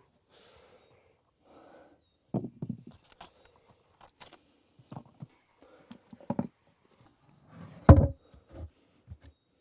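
A series of irregular knocks and thumps, the loudest about eight seconds in.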